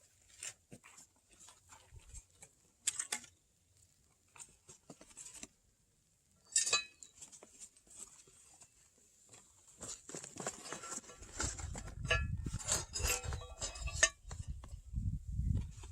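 Scattered clicks and light clinks of cooking gear being handled, getting busier about ten seconds in, with an uneven low rumble underneath.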